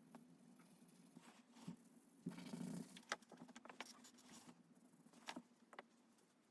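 Faint scratches, taps and a short rustle of a pen on paper during drawing, over a steady low hum.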